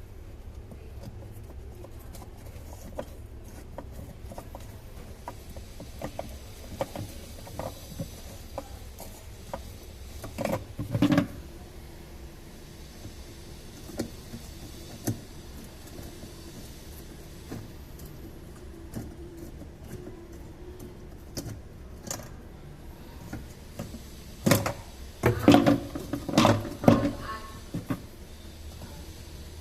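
Scattered knocks and clatter over a steady low hum, with a louder cluster of knocks about ten seconds in and another, longer one near the end.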